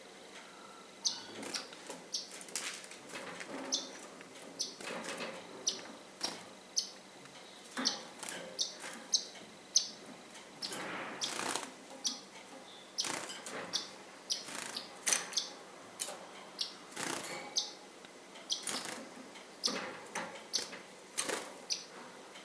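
Pet birds chirping in many short, high calls, with frequent short rustling and clicking sounds among them.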